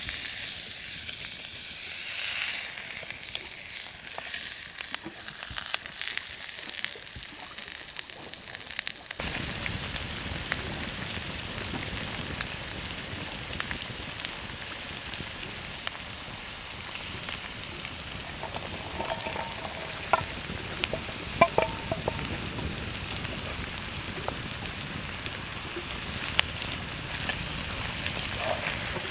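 Goose pieces and vegetables sizzling in hot fat in a cast-iron Dutch oven over a wood fire: a steady frying hiss with scattered crackles. About nine seconds in, the sizzle turns fuller and deeper, and a few light clinks come around two-thirds of the way through.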